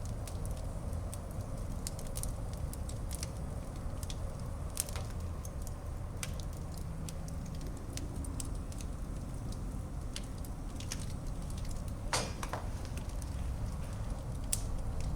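Wood fire burning in a fireplace: a steady low rumble of flames with irregular crackles and pops, and a louder snap about twelve seconds in.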